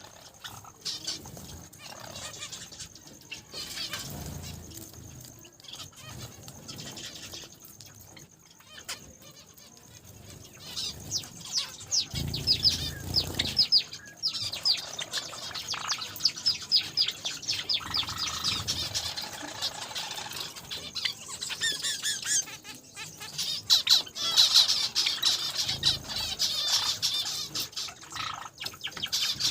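A mixed flock of small cage finches (Java sparrows, zebra finches and Bengalese finches) chirping and fluttering their wings, with fast runs of short high calls that grow busier and louder about a third of the way in.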